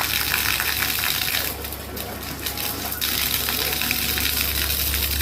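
Water pouring and splattering in a steady stream, as in watering plants by hand. The flow thins briefly about a second and a half in, then runs full again.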